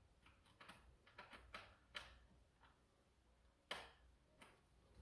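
Near silence with faint, scattered plastic clicks and taps, about seven in all with a louder one near the end, from handling the D-Dart Blizzard toy blaster, which is not working.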